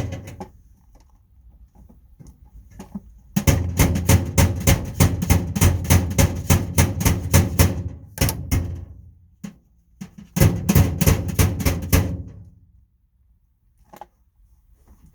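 Rapid metallic banging on the sheet-steel tool box, about five strikes a second. A long run starts about three seconds in, and a shorter run follows about ten seconds in.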